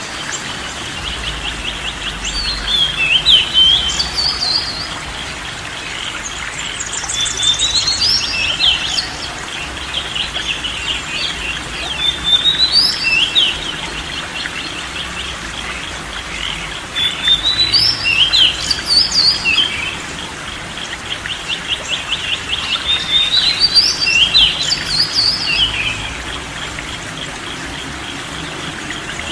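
A songbird singing loud phrases every few seconds, each a rapid buzzy trill followed by quick rising whistled notes, over a steady background hiss.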